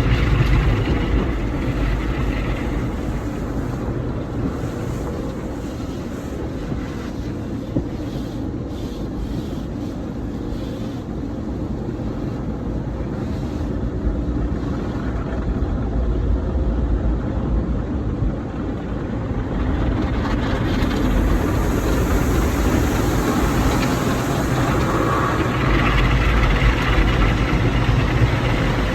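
Automatic car wash running over a car: a continuous rumble and rush of water spray and machinery, growing louder and hissier about two-thirds of the way through.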